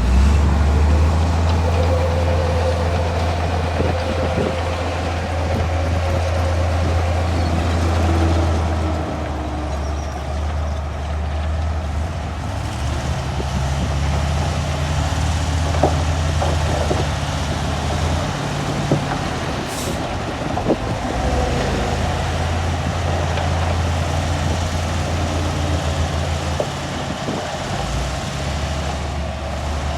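Heavy diesel engine of a construction machine running under varying load, its low drone stepping up and down in pitch several times.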